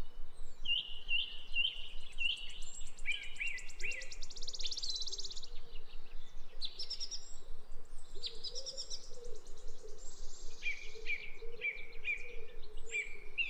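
Birdsong: runs of short, quickly repeated chirps alternating with rapid, high-pitched trills.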